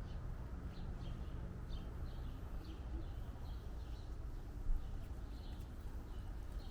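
Small birds chirping in quick repeated short calls over a steady low rumble, with one brief louder knock about two-thirds of the way in.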